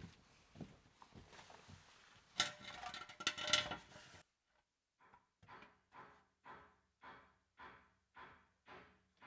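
Workshop hand work: a loud clatter of metal parts being handled, which cuts off suddenly. Then come even back-and-forth scraping or rubbing strokes, about two a second.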